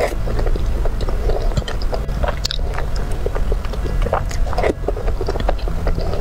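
Close-miked eating of saucy dumplings: wet chewing, lip smacks and slurps in many short clicks, over a steady low hum.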